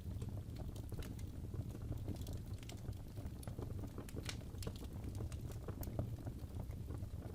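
Wood fire burning in a fireplace: a steady low rumble of the flames with irregular small crackles and pops from the burning logs, a few sharper pops standing out.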